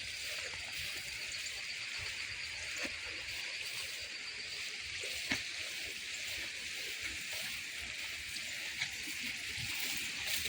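Steady rush of flowing water, with low wind rumble on the microphone and a faint click about halfway through.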